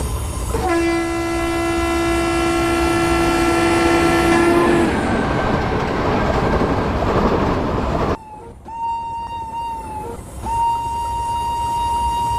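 Indian Railways train horn sounding one long steady note for about four seconds, followed by the noise of the train running. After an abrupt cut, a higher steady tone starts, breaks off briefly, then holds.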